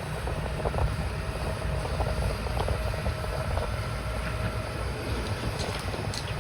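A steady low engine rumble with a faint hum above it and a few light knocks.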